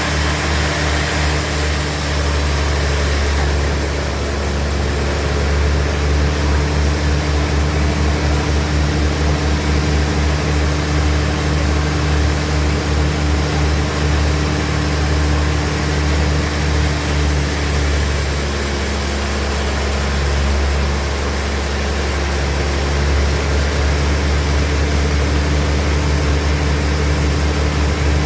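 Band sawmill machinery running steadily: a constant low hum with a few fixed tones over it and a light hiss that comes and goes.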